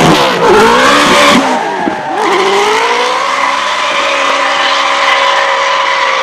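A drift car's engine being revved hard, its pitch swinging up and down, with tyres skidding. It then holds a high, nearly steady note through a long slide while the tyre noise continues.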